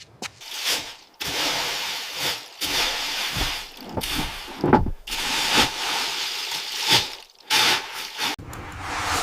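Hand-tool work: a run of rasping, hissing strokes, each about a second long, with short breaks between them.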